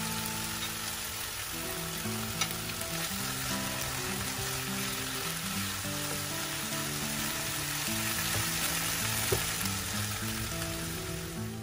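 Fish chunks in a thick chilli paste sizzling in a frying pan while a spatula stirs through them, with two sharp clicks, one a couple of seconds in and one near the end.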